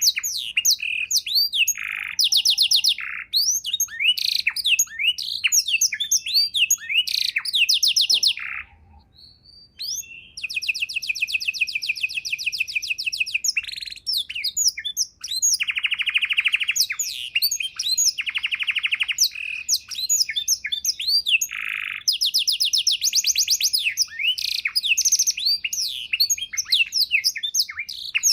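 Domestic canary singing a long, varied song of fast trills, rapid repeated notes and long buzzing rolls. It breaks off for about a second and a half about a third of the way in, then goes on. The song is of the kind kept as a master recording for training other songbirds, rich in learned phrases ('isian').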